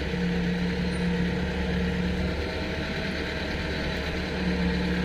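Steady low drone of a running engine, with a humming tone that fades out about two and a half seconds in and comes back near the end.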